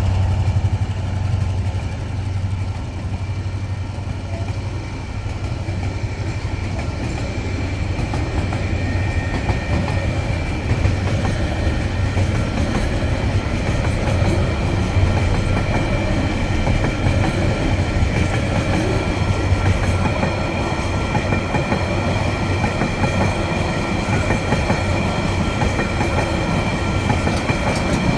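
Freight train wagons rolling past with steady wheel clatter on the rails. The lead diesel locomotives' low engine hum fades out in the first couple of seconds.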